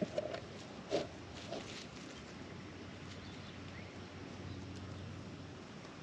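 Three or four short, low bird calls in the first second and a half, then only a steady background hum.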